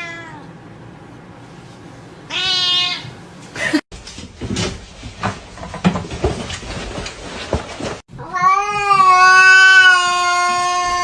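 Cats meowing: a short meow a couple of seconds in, a stretch of scattered knocks and clatter, then a long, loud, drawn-out yowl held at a steady pitch near the end.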